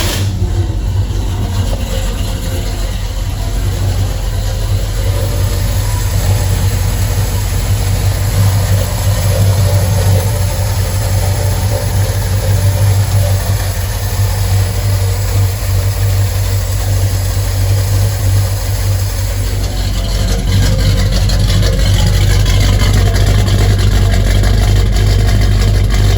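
1974 Ford F100 pickup's engine idling steadily on a cold start, just after catching, getting a little louder from about twenty seconds in.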